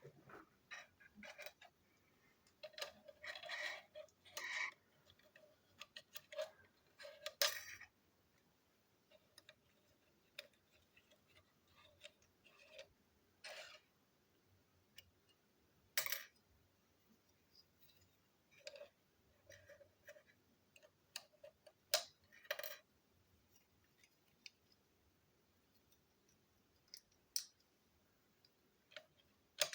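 Small plastic clicks, taps and brief rattles from toy train pieces being handled and fitted together, irregular and faint, with a busier run of rattling a few seconds in and isolated sharp clicks after that.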